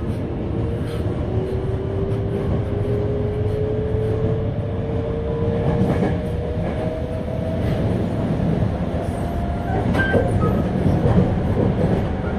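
Toei 5300 series electric train heard from on board while running. Its motor whine rises slowly in pitch as it gathers speed, over a steady rumble of wheels on rail, with a few scattered clicks from the track.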